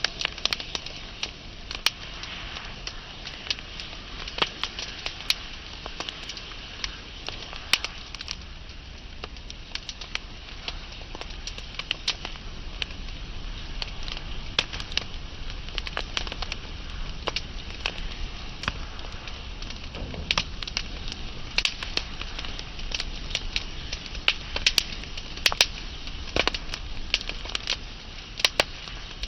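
Wood fire burning and crackling: irregular sharp pops and snaps, several a second, over a steady hiss and low rumble of the flames.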